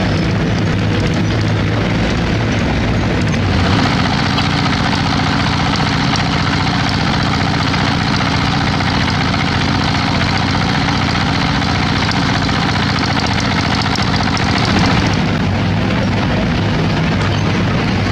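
Heavy diesel construction machinery running steadily. About three and a half seconds in, a harsher, hissier working noise joins the engine sound, and it drops away about fifteen seconds in.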